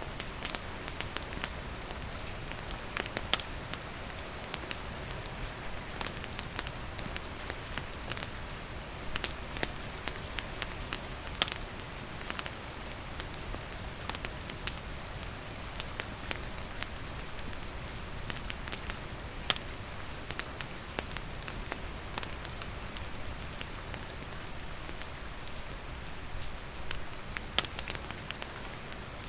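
Steady rain hiss mixed with a wood campfire crackling, with sharp irregular pops scattered throughout.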